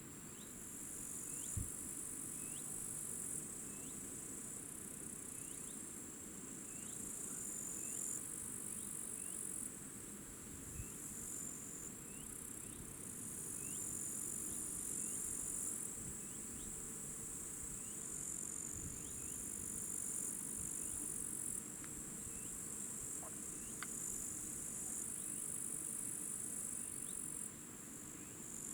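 High-pitched insect chorus, typical of grasshoppers or bush crickets, singing in long overlapping bouts of a few seconds each. A short rising chirp repeats about once a second underneath it.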